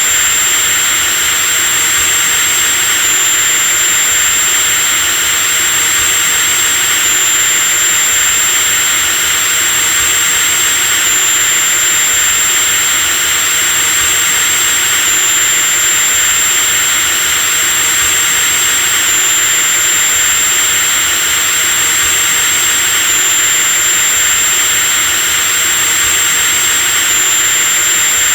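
Electric power drill running continuously at a steady speed: a dense motor hiss with a high steady whine on top, which dips slightly in pitch about every four seconds.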